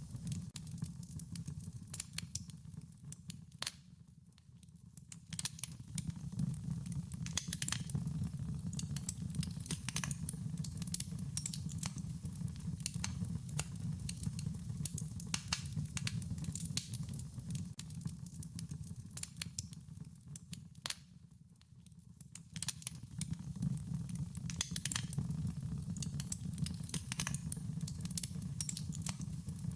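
Wood fire crackling: a steady run of sharp pops and snaps over a low rumble of flames. It thins out briefly twice, about four seconds in and again about twenty-one seconds in.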